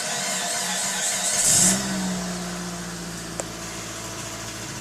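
Rebuilt Mitsubishi 4G69 2.4-litre four-cylinder engine on its first start: it cranks, catches about a second and a half in with a brief flare in revs, then settles into a steady idle.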